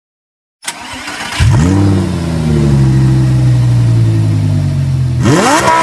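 Lamborghini Gallardo V10 with an Akrapovic slip-on exhaust starting up. After a brief crank it catches about a second and a half in with a flare of revs, settles into a steady idle, then revs up sharply near the end.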